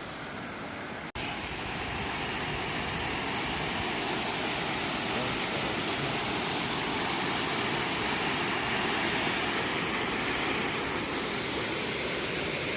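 Steady rush of a waterfall, an even wash of falling water with no clear pitch. It cuts out for an instant about a second in, then comes back slightly louder.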